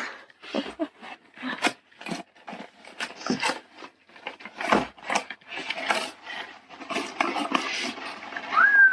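A parcel being opened by hand: irregular rustling, scraping and tearing of packaging, busier in the last few seconds.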